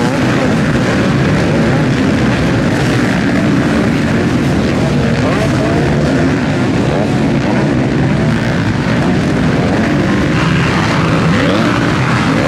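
Several motocross bike engines racing at once, loud and continuous, with the pitch of individual engines rising and falling as riders rev and shift.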